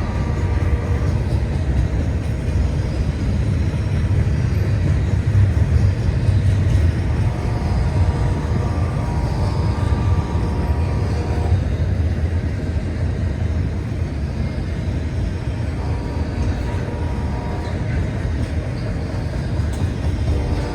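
CSX freight train running past with a steady low rumble. A pitched tone rises above it for a few seconds in the middle.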